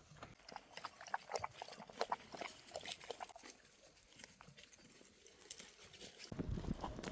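Animal hooves clopping unevenly, thinning out after about three seconds. A low rumbling noise comes in about six seconds in.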